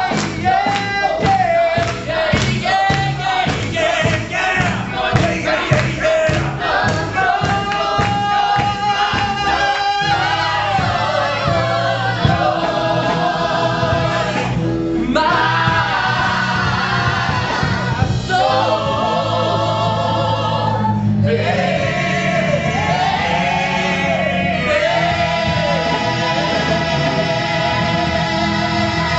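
Gospel choir singing with band accompaniment. A steady beat drives the first third, then the choir holds long chords, with brief breaks about 15 and 21 seconds in.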